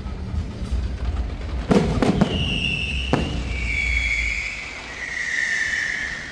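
Aerial fireworks going off: a few sharp bangs about two and three seconds in, followed by long whistling tones that slide slowly down in pitch.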